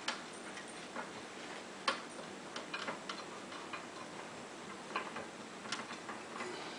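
Irregular clicks and taps of the metal range hood being handled, over the steady airy hiss of the Nutone range hood's exhaust fan running.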